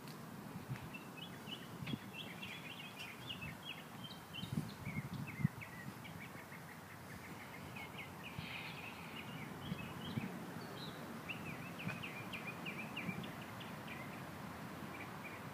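Small birds chirping and twittering in quick, short calls throughout, over a low steady background rumble.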